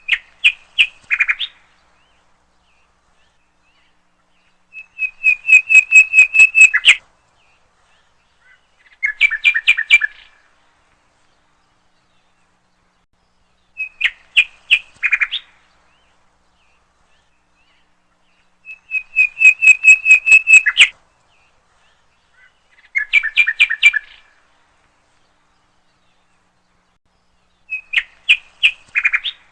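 A songbird singing: seven short phrases of rapidly repeated whistled notes, about one every four to five seconds, some drawn out into a two-second trill on a steady pitch, with clean silence between phrases.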